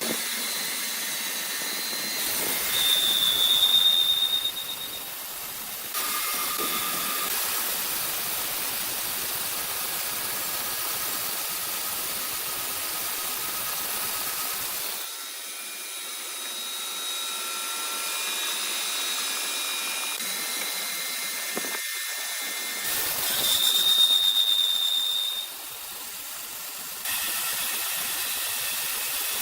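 Sawmill machinery running with a steady hiss and a high-pitched whine, like a saw blade, that swells loudest twice. The sound changes abruptly several times.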